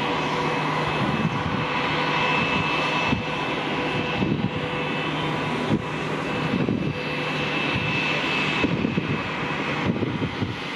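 Jet airliner engines running, a dense rushing noise carrying a steady high whine and a few steady lower hums.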